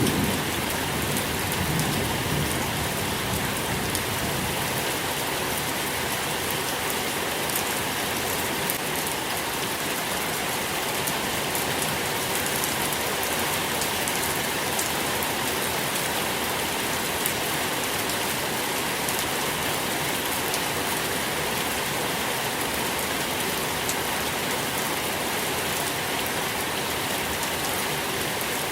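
Steady, even rain falling, with the tail of a low thunder rumble dying away in the first couple of seconds.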